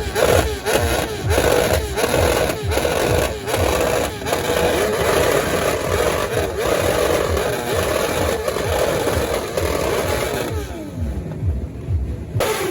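Motorcycle engines revved in quick, repeated throttle blips, the pitch rising and falling a few times a second. Near the end the sound briefly turns duller.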